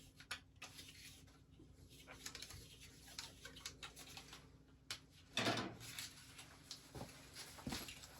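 Faint scattered clicks and scrapes of hand tools and metal parts being handled, with a louder rasping scrape about five and a half seconds in.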